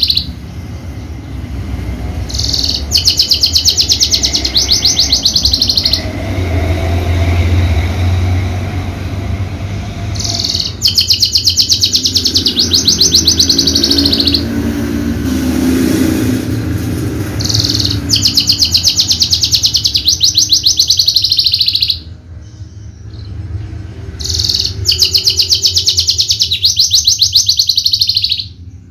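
Javan bushlark (Horsfield's bush lark) singing in bouts of very rapid, densely repeated high notes. There are about four or five bouts, each a few seconds long, with short breaks between them.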